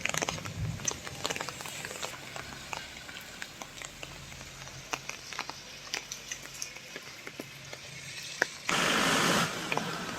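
Rain falling, with many irregular drops ticking and dripping on nearby surfaces over a steady patter. About nine seconds in, a sudden louder rush of noise lasts under a second.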